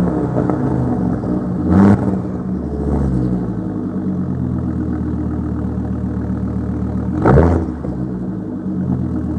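Volvo S60 T5 turbocharged petrol engine idling, with two short throttle blips, one about two seconds in and one about seven seconds in.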